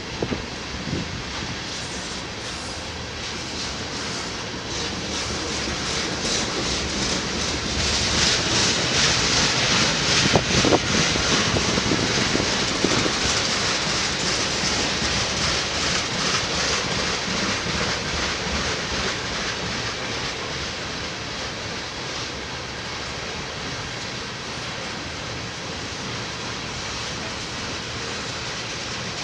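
A train rolling past on the rails, its wheels clicking rapidly and steadily over the rail joints. The sound swells to its loudest about ten seconds in, then eases off.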